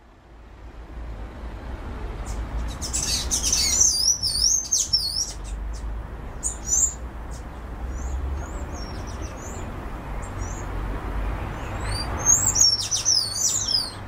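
Small birds chirping and twittering in quick, repeated, high sweeping notes, thickest about three seconds in and again near the end, over a steady low background rumble.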